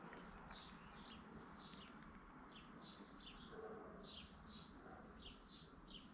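Faint bird chirping: quick, short chirps that slide downward in pitch, two or three a second, over near-silent room tone.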